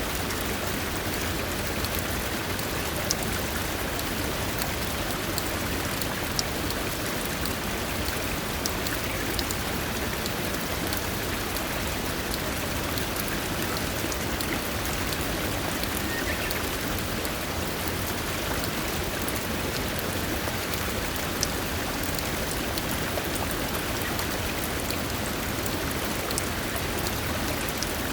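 Steady rush of falling or running water, with a few scattered louder drips.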